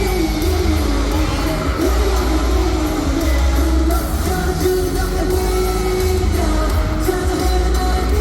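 A K-pop song played live over a concert sound system: a sung melody over a heavy, pulsing bass beat, with some crowd yelling.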